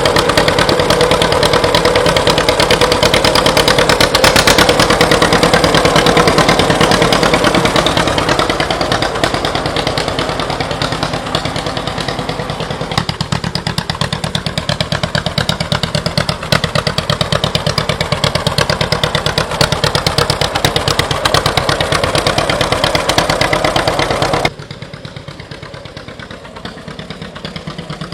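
1940 John Deere Model B's two-cylinder engine running just after a hand flywheel start, a rapid, even popping beat. It gets somewhat quieter about eight seconds in and drops sharply in loudness about 24 seconds in, still running.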